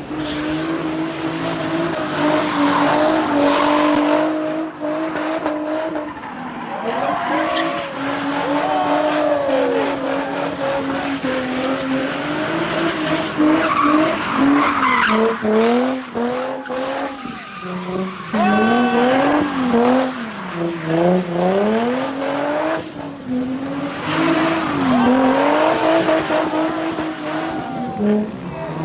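Car engine revving up and down over and over while its tyres squeal and skid on the pavement.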